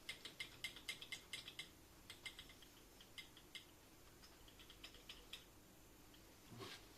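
A run of light, irregular clicks, dense for the first second and a half and then sparser, with a soft thump near the end.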